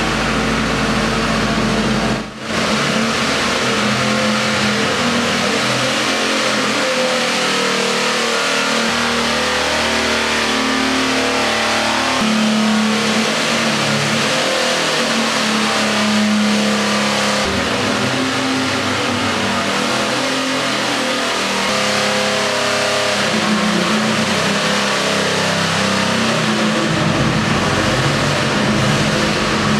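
Big-block drag-race engine running hard and loud, its revs shifting up and down through the run, with a brief dip about two seconds in.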